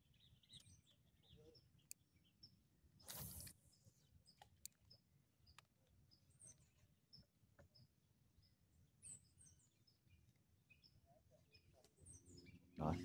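Near silence with small birds chirping faintly, short high chirps repeating every fraction of a second. A brief rush of noise comes about three seconds in, and a louder one right at the end.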